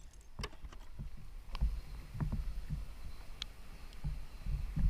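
Kayak being paddled: irregular low thuds and small clicks of the paddle and hull on the water, the loudest near the end.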